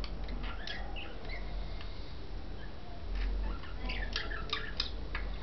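Budgies chirping and chattering in short, squeaky notes, one cluster near the start and a busier run about four seconds in, over a steady low hum.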